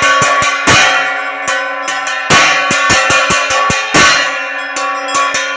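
Temple bells ringing for aarti, struck rapidly and continuously over a sustained metallic ring, with percussion strikes and heavier strokes about every one and a half seconds.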